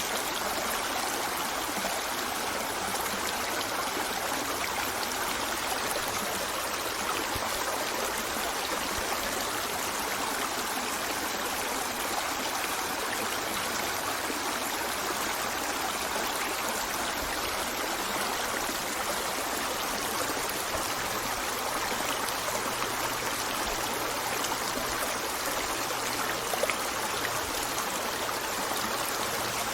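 River water flowing steadily over stones, a continuous rushing with trickling and gurgling.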